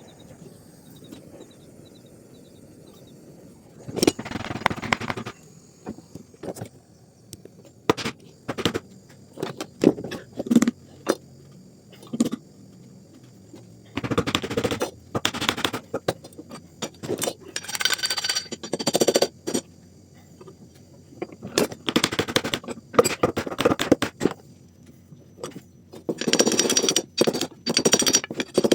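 Hand-tool work on a trowel's new wooden handle: single sharp knocks and runs of rapid knocking and scraping lasting a second or two, starting about four seconds in.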